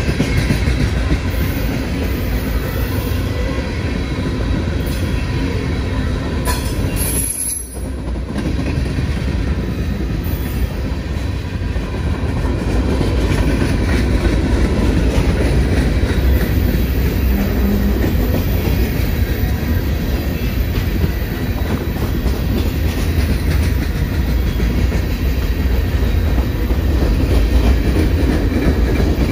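Freight cars of a slow-moving CSX manifest train rolling past: a steady, loud rumble of steel wheels on rail, with faint high steady tones over it and a brief lull about seven seconds in.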